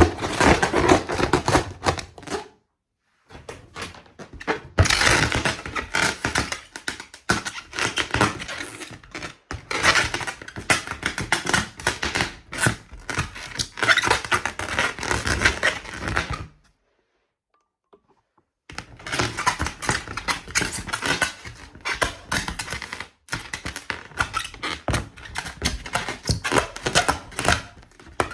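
A balloon being handled: a fast, dense run of taps, scratches and crinkles on its surface. It comes in three stretches, stopping briefly about two and a half seconds in and again for about two seconds after the middle.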